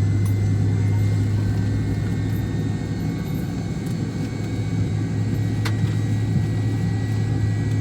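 Steady low rumble and hum inside the cabin of a McDonnell Douglas MD-88 airliner on the ground, with a faint click about six seconds in.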